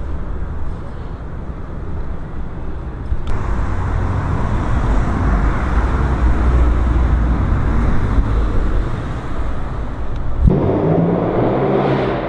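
BMW M4 F82's engine and Akrapovic exhaust running with a low rumble that grows louder about three seconds in; near the end a clearer, pitched engine note comes in.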